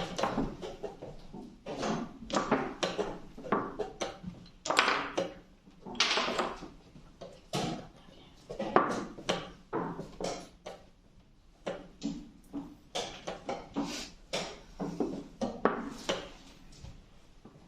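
Quick, irregular knocks and clacks of chess pieces being set down on a board and a chess clock being pressed during fast blitz play.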